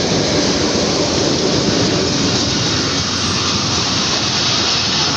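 Diesel-hauled passenger train running in alongside the platform: a loud, steady rush of the locomotive and coaches rolling past close by.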